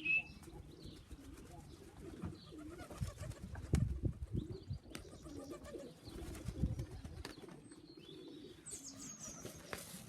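Racing pigeons cooing repeatedly around the loft, with a few higher chirps near the end.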